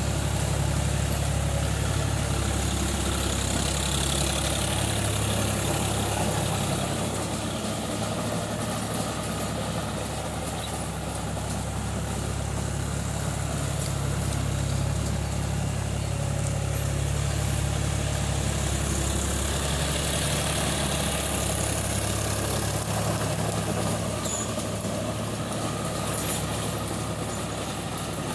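Tractor engine running steadily, its level easing off slightly a couple of times and coming back.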